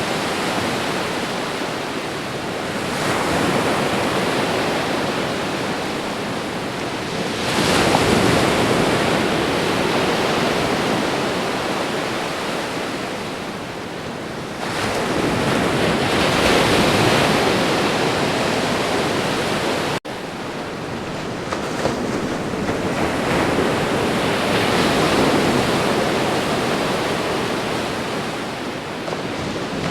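Ocean waves breaking on a shore: a constant rush of surf that swells into a fresh crash every five to eight seconds and then drains away. There is a momentary dropout about two-thirds of the way through.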